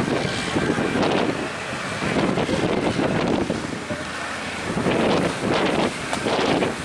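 Wind buffeting the microphone in uneven gusts, over the rush of large waves breaking.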